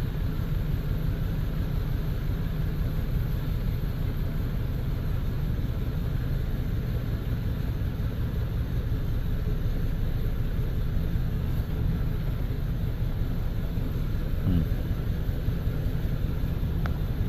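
2002 Chevy 1500's V8 engine running steadily with a misfire on bank one, with cylinder 1's fuel injector shut off from a scan tool. Its running does not change with the injector off, which the mechanic takes to mean cylinder 1 isn't firing at all.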